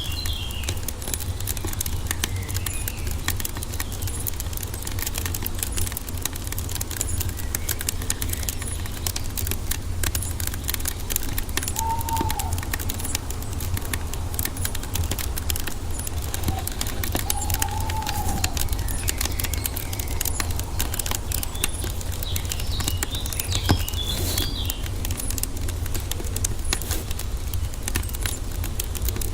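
Wood fire crackling with many small pops over a steady low rumble. Birds chirp and twitter at the start and again near the end, with two short whistled calls in the middle.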